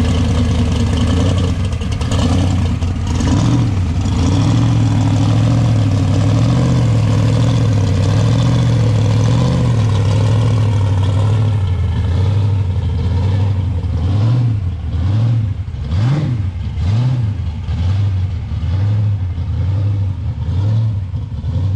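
Loud car engine running at a lumpy idle. From about two-thirds of the way in, it is revved several times in short blips that rise and fall in pitch.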